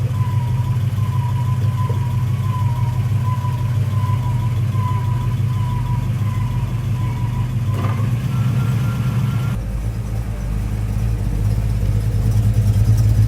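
Car engine idling steadily with a deep, even low note, with a faint thin whine above it that steps up in pitch about eight seconds in; the engine note shifts a little near ten seconds.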